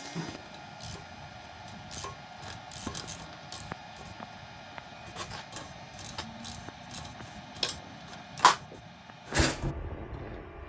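Irregular mechanical clicks and knocks, as of parts and tools being handled, over a faint steady hum, with two sharper knocks near the end.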